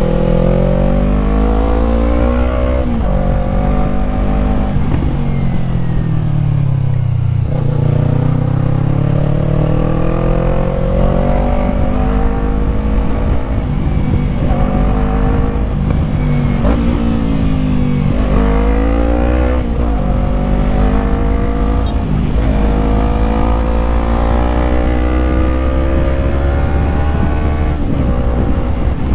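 Yamaha MT-03's parallel-twin engine under way, its note climbing under throttle and dropping sharply at several upshifts, with slower falls where the rider eases off, over steady wind rush.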